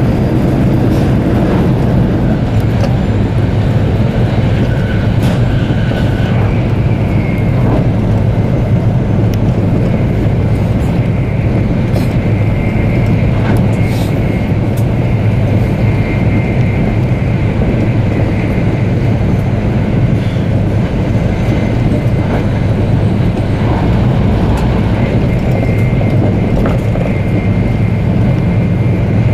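Tokaido Shinkansen bullet train running at speed, heard from inside the passenger cabin: a steady low rumble of wheels and air. A faint high tone comes and goes over it, with a few light clicks.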